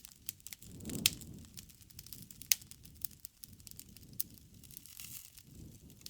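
Wood fire crackling, with irregular sharp pops and snaps over a low rush of flames that swells about a second in and again near the end. The two loudest pops come at about one second and two and a half seconds.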